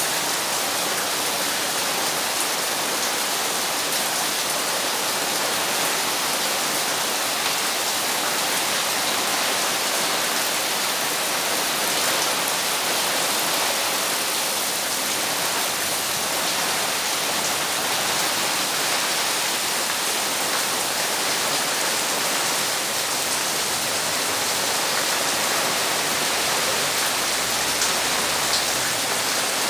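Heavy rain pouring down steadily onto tree leaves, a wet yard and a clay-tile roof: an even, unbroken hiss of downpour.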